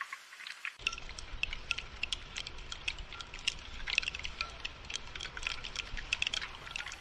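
Rain falling, with a dense patter of individual drops and drips. About a second in, a low steady rumble joins the patter.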